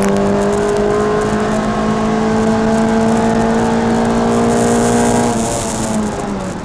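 Peugeot 306 Rallye's engine pulling hard under full throttle, heard from inside the cabin, its note rising slowly with road and wind noise growing. About five seconds in the steady note breaks off and the sound drops as the driver lifts off.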